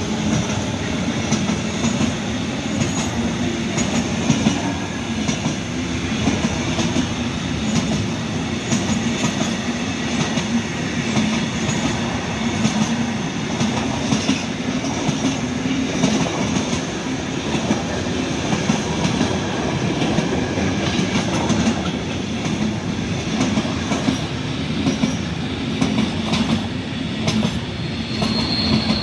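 Container freight train wagons rolling past close by: a steady rumble of steel wheels on the rails, with repeated clacks as the wheels cross rail joints. A brief high wheel squeal comes in near the end.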